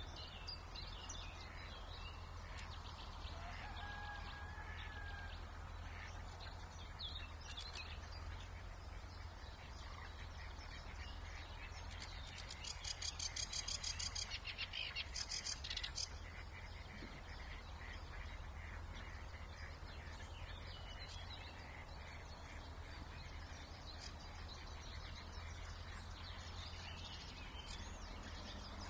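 Several songbirds singing and calling in a springtime marsh and reedbed, with a loud, rapid trilled song phrase in the middle. A steady low hum of background noise lies underneath.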